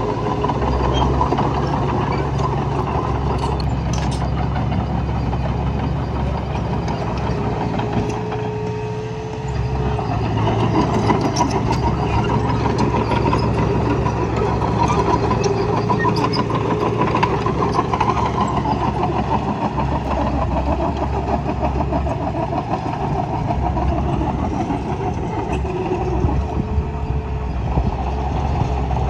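Heavy diesel engine of earthmoving machinery running steadily under load, easing off briefly about eight seconds in.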